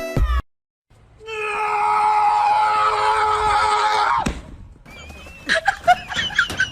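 A long, loud scream held for about three seconds on one slightly falling pitch, cut off suddenly. A few short, high, warbling calls follow near the end.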